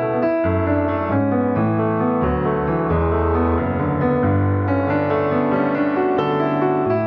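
Background piano music: a gentle melody over a slow bass line.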